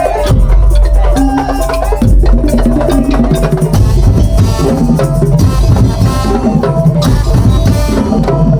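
Madurese tong-tong percussion ensemble playing loudly: wooden and bamboo strikers and drums keep a dense, steady beat under a pitched melody line.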